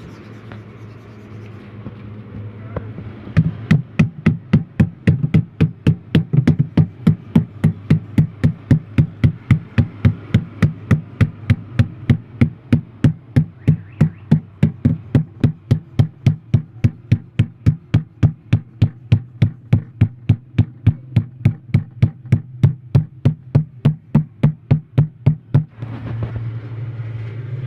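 Rapid, very regular knocking, about three strikes a second, over a steady low hum. The knocking starts a few seconds in and stops shortly before the end.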